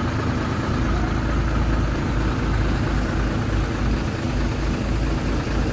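Heavy diesel engine of earthmoving machinery running steadily at an even, low rumble.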